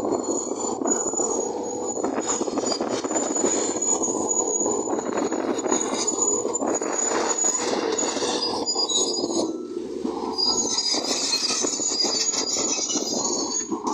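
Crawler bulldozer working: its engine running under a constant clatter of the steel tracks, with a thin, steady, high-pitched squeal from the track running gear. The squealing grows brighter and harsher from about ten seconds in.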